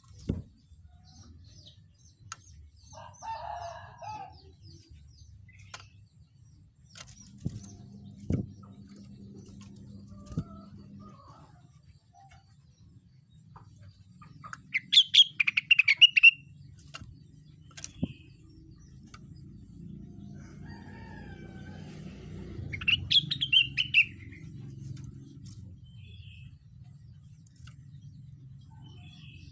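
Rengganis songbird singing two short bursts of rapid, chattering high notes, about halfway through and again a few seconds later, with scattered softer chirps and clicks between them over a low steady hum.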